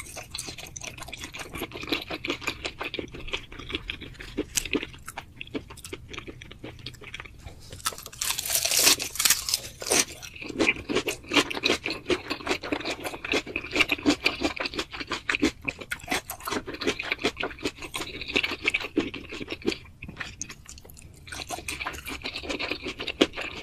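Close-miked chewing and crunching of food, a dense run of quick crunches, loudest about eight to ten seconds in.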